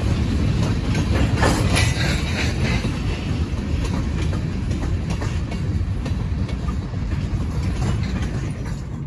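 Freight cars (gondolas and tank cars) rolling slowly past behind a pair of EMD SW1500 switch engines, with a steady low rumble and irregular wheel clicks and clanks over the rail joints. The clicks are busiest a second or two in, and the rumble eases a little toward the end.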